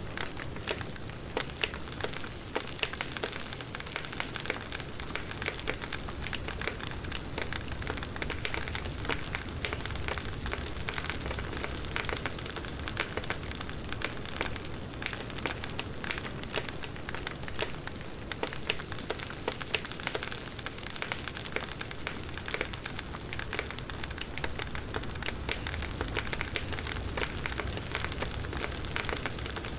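Wood campfire crackling: a steady stream of small sharp pops and snaps.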